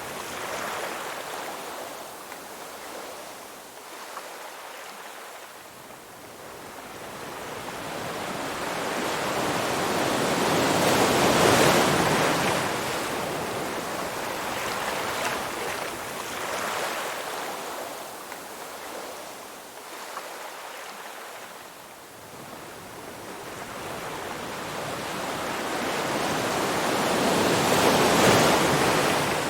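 Ocean waves washing in and drawing back as a steady hiss that slowly swells and fades. The two biggest waves break about a third of the way in and again near the end.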